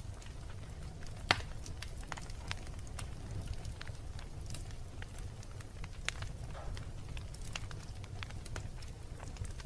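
Wood fire burning in a fireplace: a steady low rumble with scattered crackles and pops, the loudest a sharp pop about a second and a half in.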